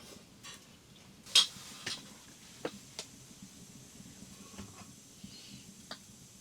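Scattered light clicks and clinks of small hard objects knocking together, the sharpest about a second and a half in.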